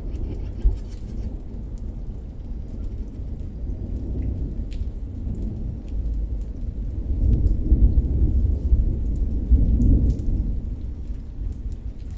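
Thunder rumbling over rain, the deep rumble swelling to its loudest about seven to ten seconds in and then easing, with scattered raindrops ticking.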